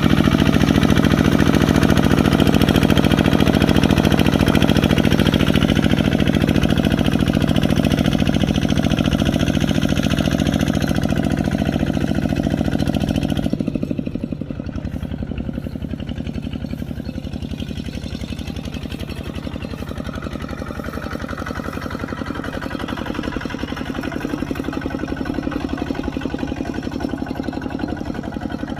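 Kubota RT140 walking tractor's single-cylinder diesel engine running steadily. About halfway through it drops suddenly to a quieter, lower sound.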